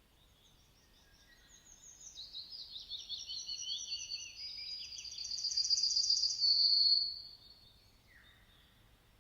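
A songbird singing one long, high-pitched phrase of rapid notes and trills that grows louder and ends in a fast trill about seven seconds in. Fainter, lower notes from another bird come before and after it.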